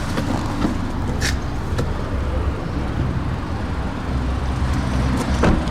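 Steady low rumble of a motor vehicle, with a few short clicks, one about a second in and one near the end.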